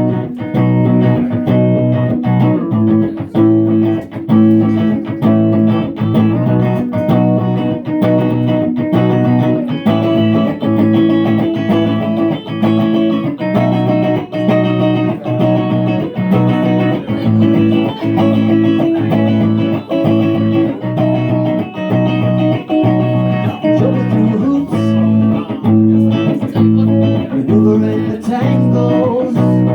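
Electric guitar, a Fender Jazzmaster, playing a steady, repeating pattern of picked notes.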